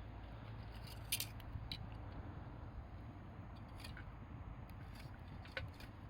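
Wood fire crackling: scattered sharp snaps and pops, the loudest about a second in, over a low steady rumble.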